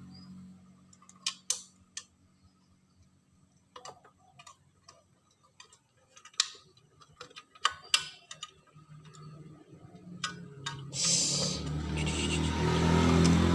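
Scattered light clicks and taps, typical of hand tools and metal parts being handled during a washing machine spin-motor repair. About eleven seconds in, a louder steady rushing noise with a low hum starts and runs on.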